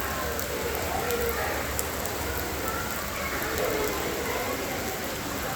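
Steady rain falling, an even hiss with scattered drop clicks, and faint voices in the background.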